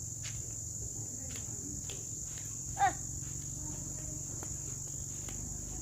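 Crickets chirring in a steady high-pitched drone over a low steady hum. About three seconds in, a short sharp high call cuts through, the loudest sound.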